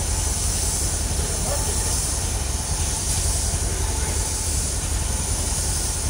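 Car engine idling steadily, a deep, evenly pulsing exhaust rumble heard close to the tailpipe, with a steady hiss above it.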